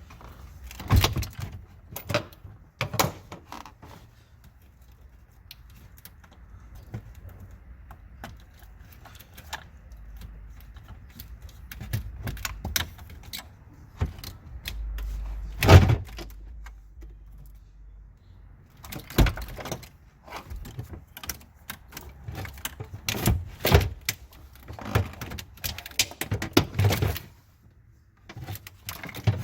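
Irregular metallic clinks, knocks and rattles of hand tools and car parts being handled while the hybrid battery pack is taken out, with one louder knock about halfway through.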